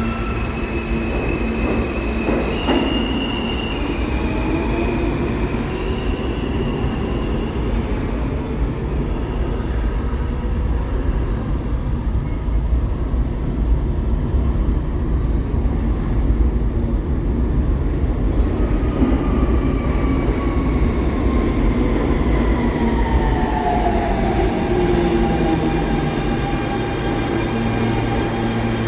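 New York City Subway SMEE train running on the rails with a steady heavy rumble and some high wheel squeal in the first few seconds. In the second half several tones glide down in pitch, as at a slowdown.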